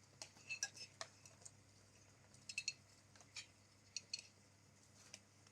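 Faint, light clinks of kitchenware, a few small taps at a time, some sharp and ringing like metal or glass being touched.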